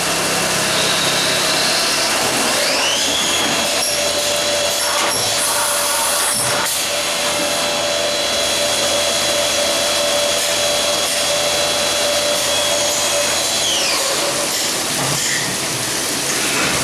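CNC machine running with a steady loud noise. About three seconds in, its spindle motor whine rises and holds, then falls away about fourteen seconds in as the spindle speeds up and slows down.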